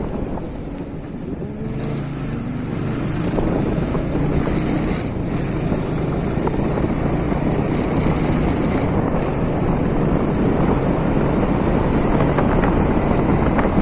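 Steady rumble of a moving vehicle, with low engine tones under a continuous rush of noise.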